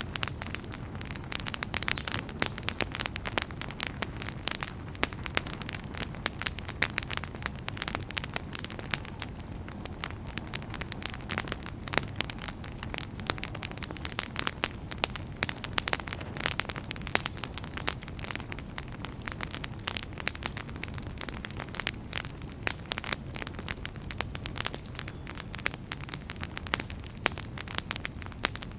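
Wood fire crackling and popping steadily, many sharp irregular pops over a low rumbling hiss of flames.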